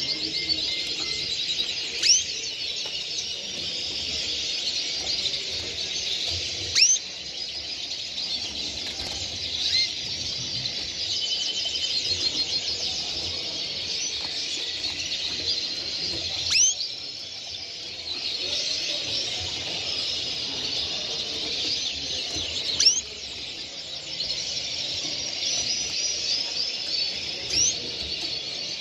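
Many caged songbirds singing at once in a continuous dense twittering, with a loud, short upward-sweeping note every few seconds.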